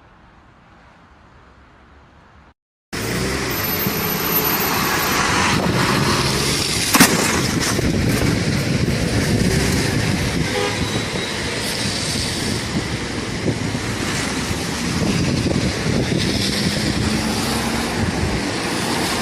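Faint hiss, then after about three seconds loud, continuous vehicle noise begins abruptly, with one sharp bang about four seconds after it starts.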